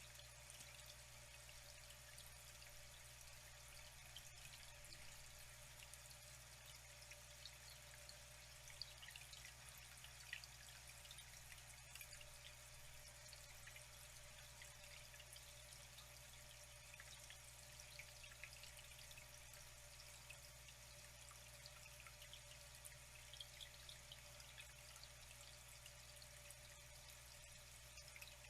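Faint flowing water trickling steadily, with small drips and splashes scattered through it.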